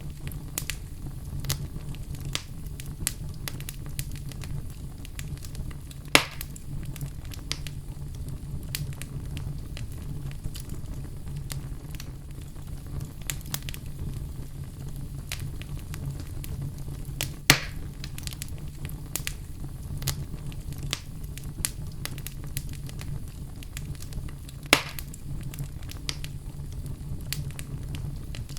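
Wood fire crackling steadily over a low rumble, with frequent small ticks and three louder pops spread through it.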